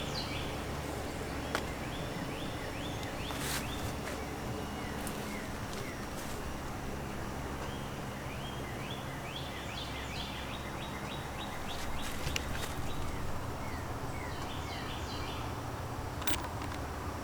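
Songbirds calling in quick runs of short, repeated chirps, over a steady low background rumble, with a couple of faint clicks.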